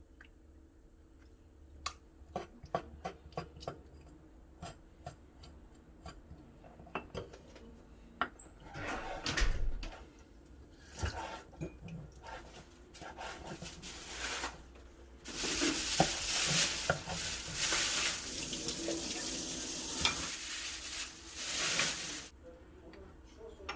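Kitchen prep: a run of light clicks and knocks of a knife and dishes, then water running from a kitchen tap in several spells, the longest lasting about seven seconds.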